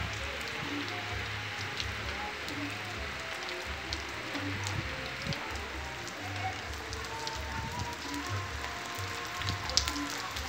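Steady rain falling on a paved street and roofs, with scattered drops ticking close by. A low rumble comes and goes underneath.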